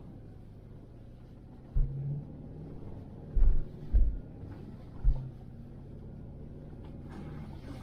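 Vehicle engine running with a steady low hum, broken by four short, heavy low thumps in the middle of the stretch.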